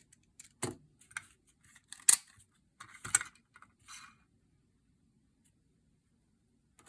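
Small 3D-printed plastic pieces being handled and moved: a few sharp clicks and short scrapes and rattles in the first four seconds, the loudest about two and three seconds in, then quiet.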